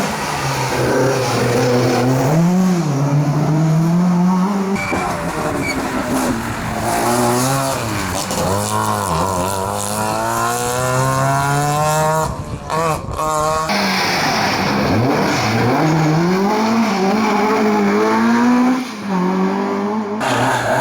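Historic rally car engines revving hard under acceleration, the pitch climbing through the gears and dropping back at each change and as the cars pass. The sound cuts abruptly to a different car about five seconds in and again about fourteen seconds in.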